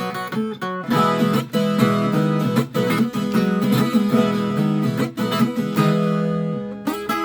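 Viola caipira, the Brazilian ten-string guitar, played with strummed chords and plucked notes in a steady rhythm. Near the end a chord is left ringing before a fresh strum.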